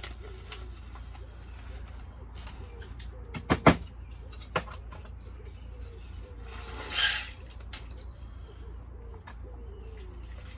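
A pigeon cooing repeatedly in the background. A couple of sharp knocks come about three and a half seconds in, and a short rustle about seven seconds in.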